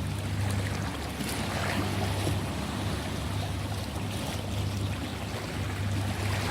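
Ocean waves washing on a shore: a continuous wash of surf noise with a deep low rumble underneath.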